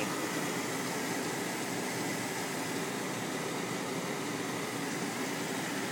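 Chevy Tahoe's V8 Vortec engine idling steadily and smoothly, heard from the open engine bay.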